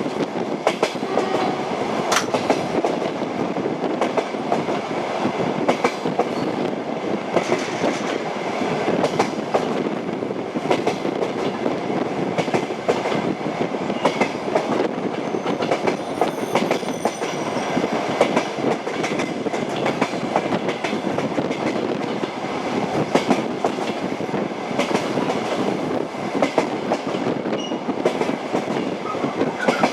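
Moving train: steady rumble of the carriage with the clicking of wheels over rail joints, and a faint brief high squeal about halfway through.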